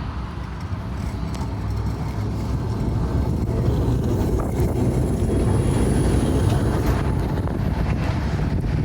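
A tram running on the Blackpool tramway: a steady low rumble of wheels on rail that swells to its loudest around the middle and eases slightly near the end, with a faint high whine at its peak.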